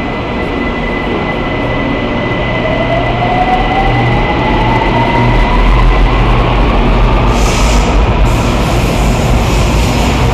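BTS Skytrain electric train pulling out of an elevated station and accelerating past, its motor whine rising steadily in pitch as it gathers speed over a rumble of wheels on rail that grows louder. A short hiss comes about three-quarters of the way through.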